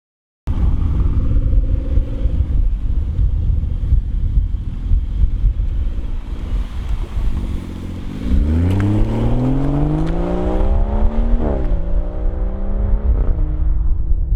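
BMW B58 turbocharged straight-six heard through its exhaust: a low, rough rumble at light throttle, then from about eight seconds in the revs climb hard under acceleration, with two quick upshifts near the end that each drop the pitch before it rises again.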